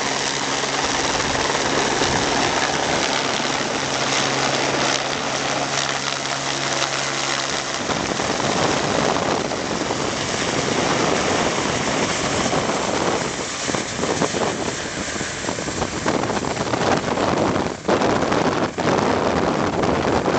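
Small model-aircraft engine buzzing steadily. About eight seconds in, its tone gives way to a rushing noise of wind on the microphone, which dips out briefly twice near the end.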